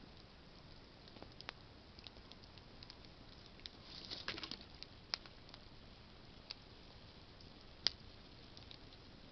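Campfire of burning branches crackling softly: scattered faint pops, a brief flurry of crackling about four seconds in, and two sharper single pops, one about five seconds in and one near the end.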